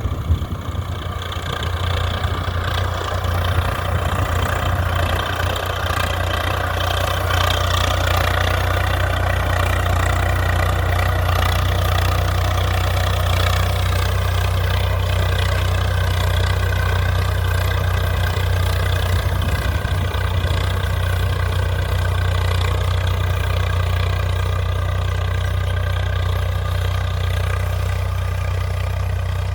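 Swaraj 855 FE tractor's three-cylinder diesel engine running steadily.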